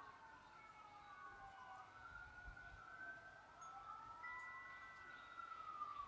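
Faint emergency-vehicle siren wailing, its pitch sliding slowly down and then back up. A single wind-chime tone starts ringing about four seconds in.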